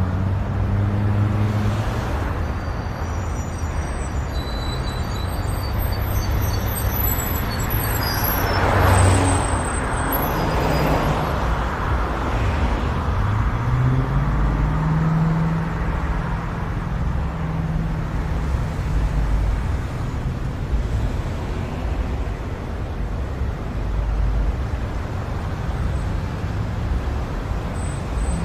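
A car driving, its engine and road noise a steady low rumble, swelling louder about nine seconds in.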